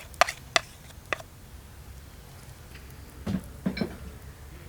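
A few sharp strokes of a knife chopping on a cutting board, about three a second, in the first second. Two duller knocks follow near the end.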